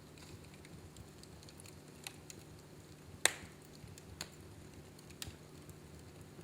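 Fireplace fire crackling: scattered sharp pops at irregular moments over a low steady hum, the loudest pop about three seconds in.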